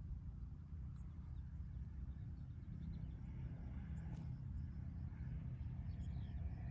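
Faint outdoor ambience: a steady low rumble with a few faint, brief high chirps or ticks scattered through it.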